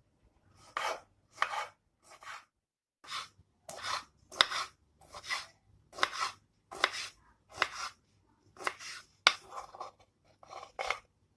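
A knife cutting food on a cutting board: a steady series of separate crunchy cuts, a little more than one a second.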